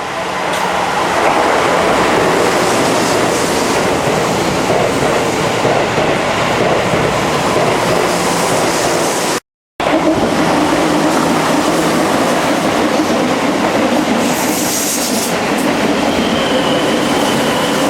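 Keihan 6000 series electric train running, a loud steady rush of wheel and running noise with some clickety-clack. It cuts out for a split second about halfway through.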